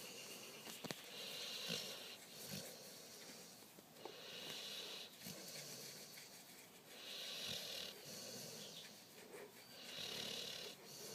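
A Labrador retriever snoring, one long breath about every three seconds.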